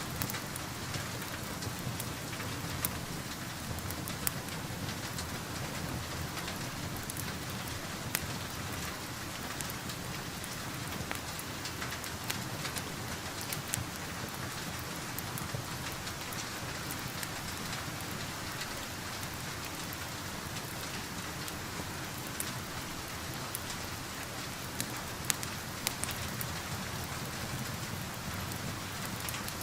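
Steady rain falling, with sparse sharp pops and crackles from a wood fire every few seconds.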